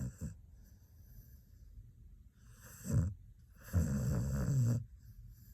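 Xoloitzcuintle (Mexican hairless dog) snoring in its sleep. A snore trails off at the start, a short snore comes near the middle, and a longer one follows about a second later.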